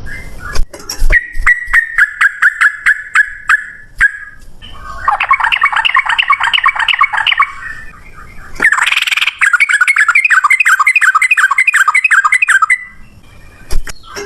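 Sooty-headed bulbul (trucukan) singing in fast, rolling runs of repeated notes, the 'ropel' song prized by bird keepers. It comes in three bursts separated by short pauses, the middle one a dense chatter.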